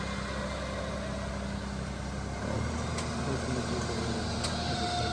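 A motor vehicle engine idling steadily; about two and a half seconds in, its sound steps up a little louder and lower.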